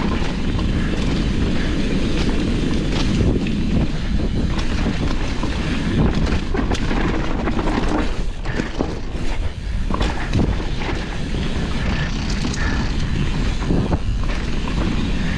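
Wind rushing over the microphone with the rolling rumble of a downhill mountain bike's tyres on a dirt trail, broken by frequent knocks and clatters from the bike over bumps and jumps.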